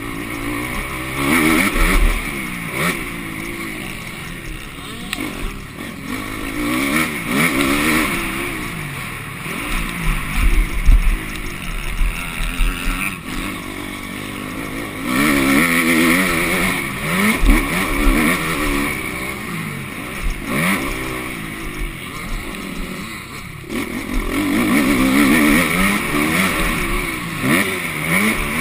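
Motocross bike engine heard onboard, revving up and dropping back again and again as the rider accelerates, shifts and brakes around the track, with occasional low thumps.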